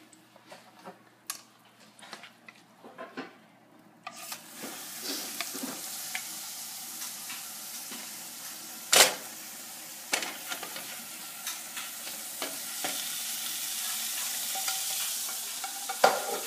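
Salmon frying in a hot frying pan: a steady sizzle starts about four seconds in after a few light clicks of handling. A sharp knock comes about nine seconds in and another near the end.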